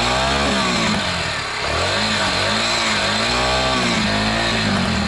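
Sym Wolf 125's single-cylinder four-stroke engine revved through its stock exhaust while the bike is standing. It goes up once and falls back, then gets several short, quick throttle blips.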